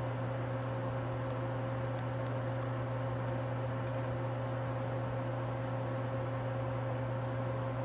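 Steady low mechanical hum with a fainter higher tone above it, unchanging throughout: the background drone of running machine-shop equipment.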